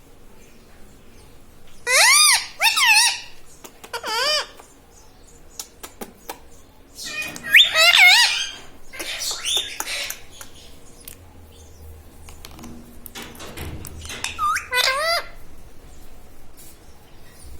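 Pet ring-necked parakeet giving shrill, wavering squawks in four short bouts, with quieter pauses between them.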